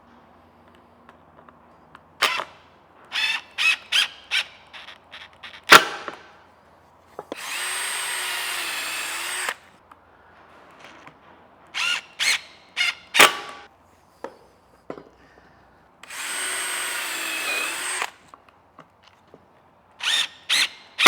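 Cordless drill/driver run twice for about two seconds each, its whine dipping in pitch as the motor loads up driving screws into plywood. Sharp clacks and knocks of the tool and wood being handled come between the runs.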